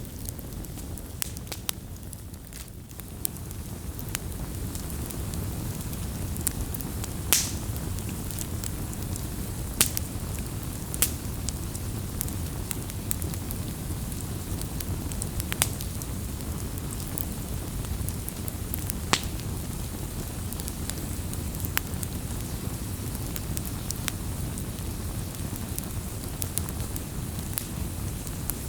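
Campfire crackling: a steady low rush of burning, with sharp pops and snaps scattered irregularly through it, a few of them standing out louder.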